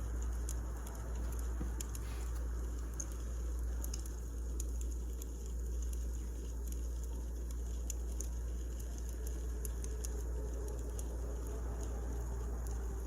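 Wood fire crackling: irregular sharp pops and ticks over a steady low rumble. A faint steady hum comes in about nine seconds in.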